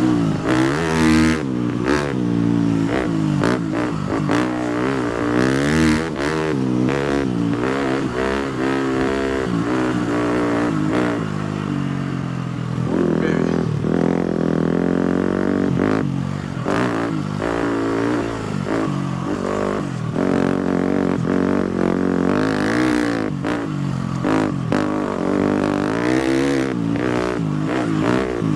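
250cc four-stroke motocross bike engine on the move, its pitch rising and falling constantly as the throttle is worked, with a steadier, lower-revving stretch about halfway through. Short clattering knocks come through often.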